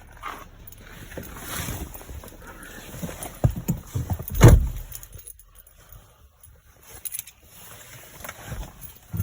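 Clicks and key jangling, then a short run of low thumps that builds to a loud peak about four and a half seconds in and dies away: the VW Golf 7's 2.0 TDI diesel being cranked on a cold start.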